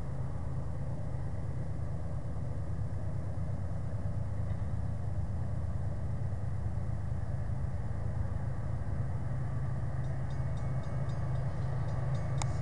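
Diesel locomotive of an approaching freight train, its engine rumbling low and steady and slowly growing louder. Near the end a faint high ticking comes in, about three times a second.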